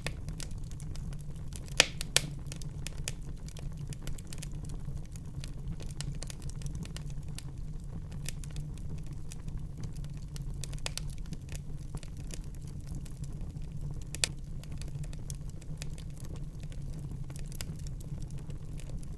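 Wood fire burning in a fireplace: constant crackling over a steady low rumble, with a few sharper pops, two close together about two seconds in and one more a little past the middle.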